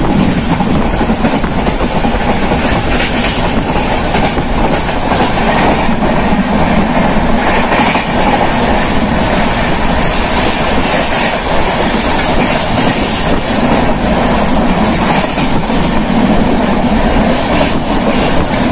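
Passenger train running at speed: a steady rumble of steel wheels on rails with occasional clicks over rail joints, heard from an open coach window.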